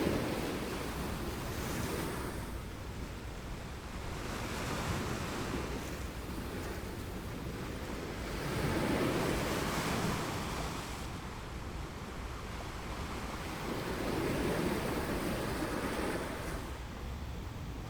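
Ocean surf on a beach: waves washing in and breaking, the sound swelling and easing in surges several seconds apart.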